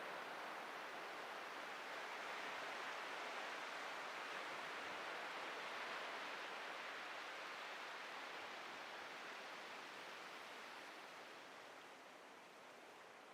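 Ocean surf washing on a beach: a soft, steady rush that swells early on and slowly ebbs away near the end.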